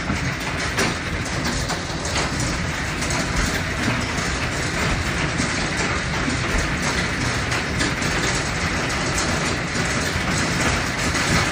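Hail and heavy rain pelting down: a steady, dense wash of noise peppered with many small sharp hits.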